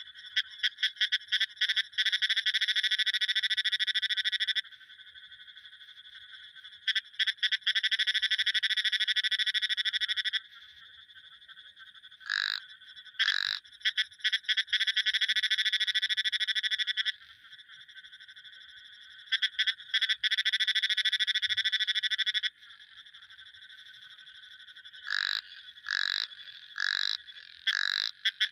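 Frogs calling: long, rapid pulsed trills of three to four seconds each, repeated four times. In the gaps come short single calls that drop in pitch, over a faint steady high drone.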